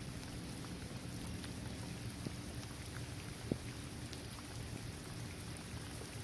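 Steady rain falling on a hard basketball court surface, trees and grass, with scattered taps of single drops and one louder drop about three and a half seconds in.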